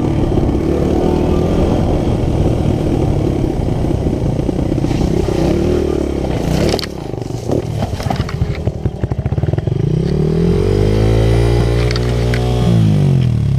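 Dirt bike engine running on a trail ride, with a few knocks and clatter about six and a half seconds in. Near the end the engine pitch climbs as it accelerates, then drops as the throttle closes.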